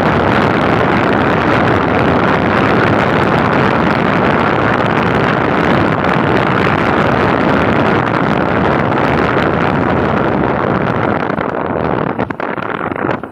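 Loud, steady rush of flowing river water, easing slightly near the end.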